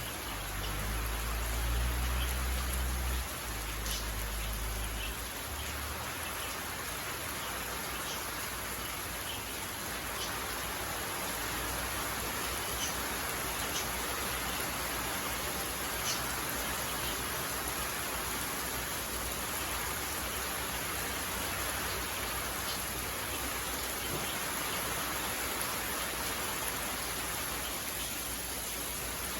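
Steady rain falling, a continuous even hiss with a few distinct drop ticks. A low rumble sits under it for the first few seconds, then fades.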